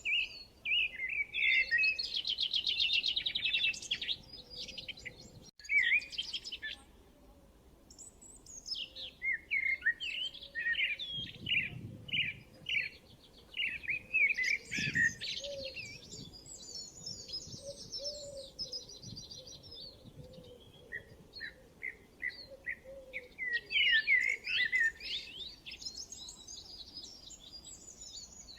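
Birds chirping and singing, with several fast high trills and runs of quick short chirps, broken by brief pauses.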